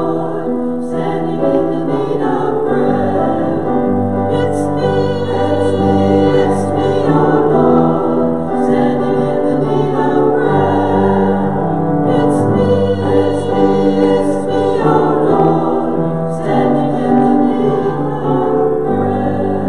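A choir singing in harmony.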